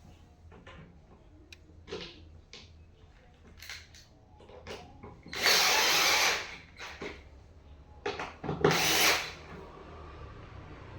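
A power drill/driver runs in two short bursts, about a second each, five and eight seconds in, likely driving screws into office chair parts. Scattered clicks and knocks of parts being handled come between the bursts.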